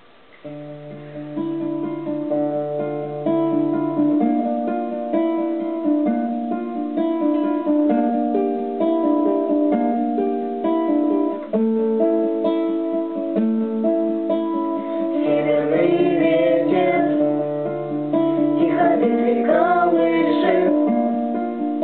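Acoustic guitar playing a picked instrumental introduction, a steady stream of plucked notes over held low notes.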